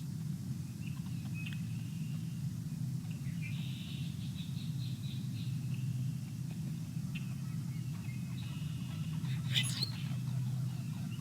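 Small birds chirping and trilling at a feeder, in short high calls, over a steady low rumble. A brief sharp sound about nine and a half seconds in is the loudest moment.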